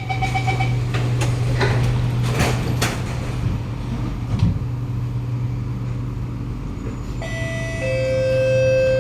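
Inside a Kawasaki Nippon Sharyo C751B metro car: a steady low hum with a few knocks in the first seconds, sliding doors shutting. About seven seconds in, the traction motors start up with a set of steady whining tones as the train begins to pull away.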